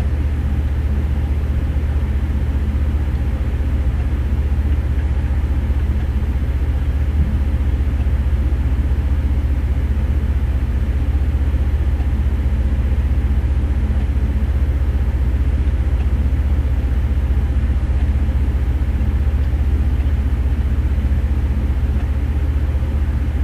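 An engine running steadily, a low even drone that does not change.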